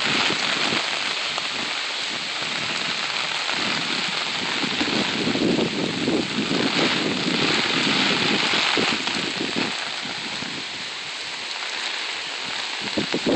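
Heavy hurricane rain falling steadily, with gusts of wind buffeting the phone's microphone that come and go, strongest in the middle.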